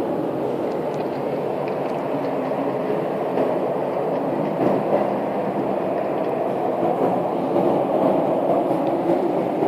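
A steady, low, rough drone with no clear pitch, growing slightly louder in the second half: the kind of unexplained sound reported in 2014 as 'strange sounds in the sky'.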